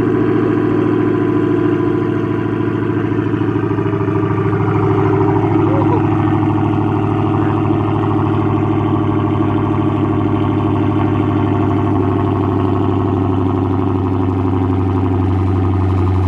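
Dodge Hellcat's supercharged 6.2-litre Hemi V8 idling steadily through a mid-muffler-delete exhaust, pretty loud, shortly after a semi-cold start.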